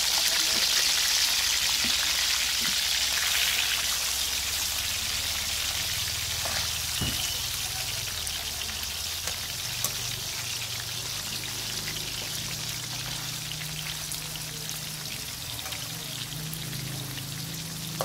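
Frog pieces frying in hot oil in a wok: a steady crackling sizzle, loudest at first and easing off a little over the seconds.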